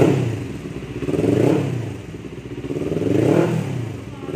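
Kawasaki Ninja 400's parallel-twin engine, breathing through an aftermarket slip-on exhaust, revved in three throttle blips, each rising and falling in pitch.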